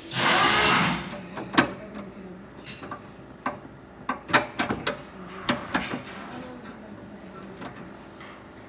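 A loud hiss for about a second, then scattered sharp clicks and knocks of hand tools on metal, several close together around the middle.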